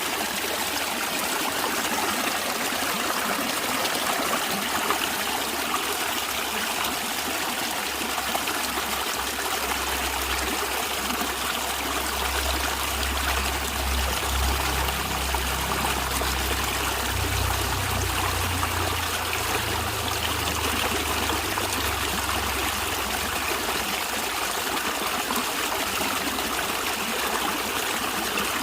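A natural stream running, a steady rush and trickle of water. A low rumble comes in about a third of the way through and fades out again well before the end.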